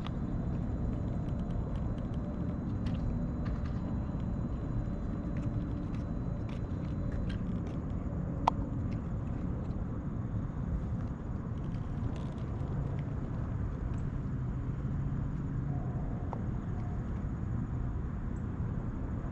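Steady low rumble of a single-cylinder KTM 390 Duke motorcycle engine idling, with one sharp click about eight and a half seconds in.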